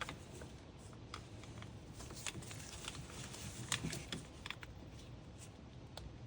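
Scattered light clicks and taps of hands and tools working plastic hose and sensor connectors in an engine bay, with one sharper tick near the middle.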